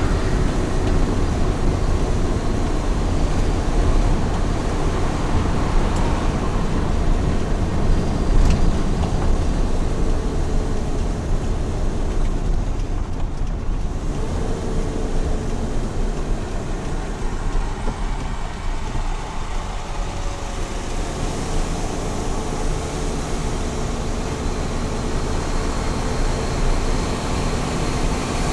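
Small truck driving at highway speed: a steady low rumble of engine and road noise.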